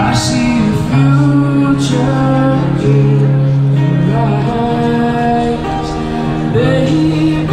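A live song: a male voice singing over an acoustic guitar, amplified through stage microphones and speakers, with long held notes.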